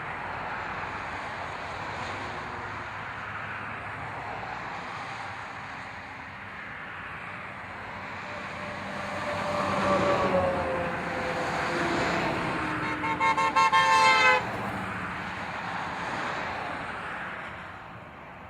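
Truck engines running in a passing parade of tow trucks, with horns sounding: a falling horn-like tone about halfway through, then a horn tooted in a quick series of short blasts a little later, the loudest sound here.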